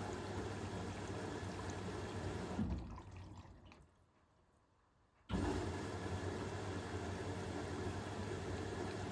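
Hoover H-WASH 500 washing machine running mid-cycle: water sloshing and running in the drum over a steady motor hum. The sound fades out about three seconds in, falls almost silent, and cuts back in suddenly about five seconds in.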